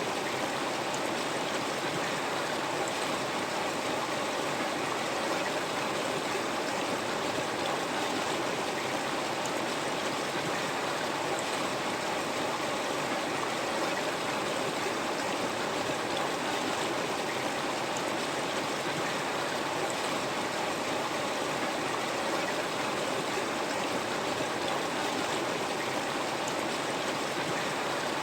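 River water flowing steadily, a constant even rushing with no breaks or changes.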